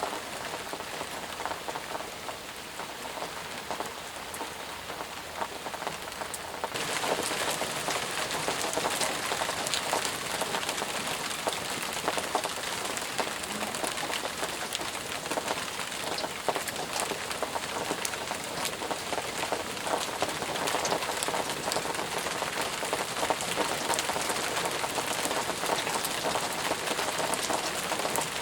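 Steady heavy rain, a dense patter of drops over a continuous hiss. About seven seconds in it turns abruptly louder and hissier, then holds steady.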